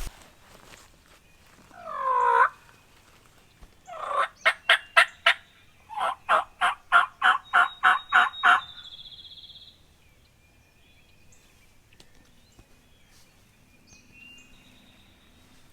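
Turkey yelping: a single bending call about two seconds in, then two loud series of evenly spaced yelps, about four to five a second, the second series longer.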